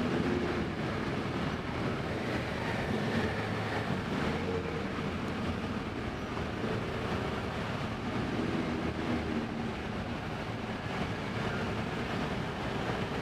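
Motorcycle on the move: engine running steadily under wind and road rumble, with no sharp events.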